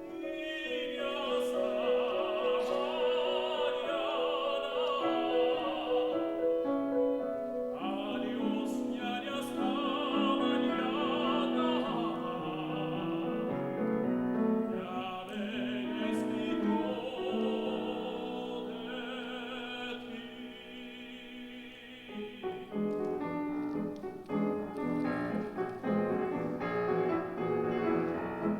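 Tenor singing with vibrato in an operatic style, with piano accompaniment, in three long phrases. From about 22 seconds in, the piano carries on alone.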